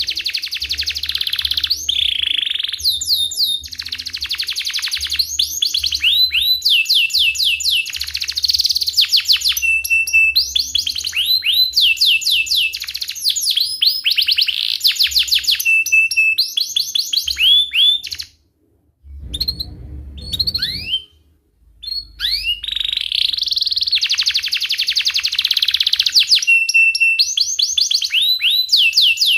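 Domestic canary singing a long, loud rolling song of fast trills and chirps. The song breaks off briefly about two-thirds of the way through, then resumes.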